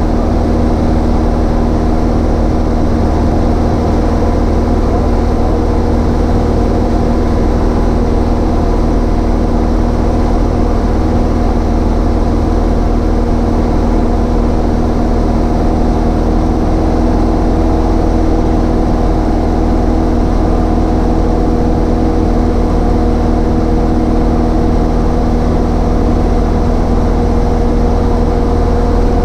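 Cessna 152's four-cylinder Lycoming O-235 engine and propeller droning steadily in flight at constant power.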